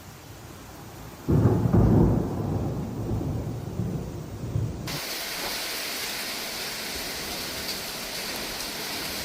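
A sudden loud crack of thunder about a second in, rumbling low and fading over several seconds. Just before halfway it cuts abruptly to the steady hiss of heavy rain.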